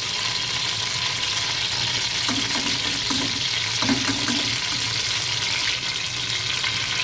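Mashed chana dal paste sizzling as it is spooned into hot vanaspati ghee in an aluminium pot: a steady frying hiss, with a knock of the metal spoon on the pot about four seconds in.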